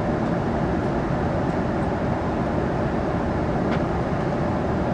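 Steady rumble of an airliner cabin in flight: jet engine and airflow noise, with a faint click near the end.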